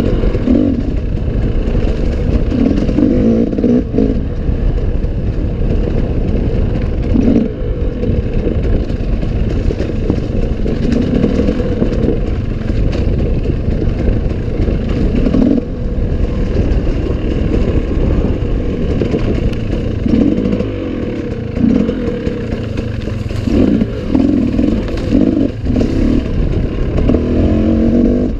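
Enduro dirt bike engine running hard on a forest trail, its revs rising and falling again and again, with clatters and rattles from the bike over rough ground.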